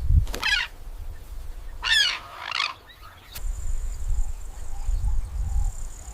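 A bird calling three times: short, sweeping, reedy calls, the last two close together about two seconds in. A low rumble like wind runs under it, dropping away in the middle.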